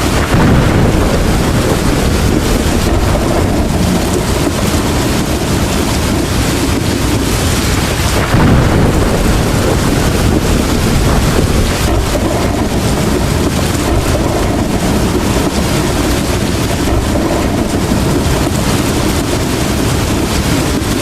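Steady rain pouring down during a thunderstorm, with thunder rumbling. The rumbles swell loudest right at the start and again about eight seconds in.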